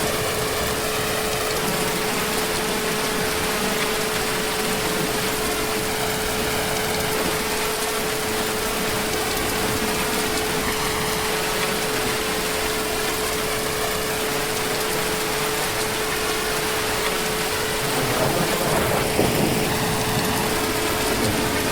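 Heavy rain falling in a steady, dense hiss, with a steady humming tone underneath. The rain grows briefly louder near the end.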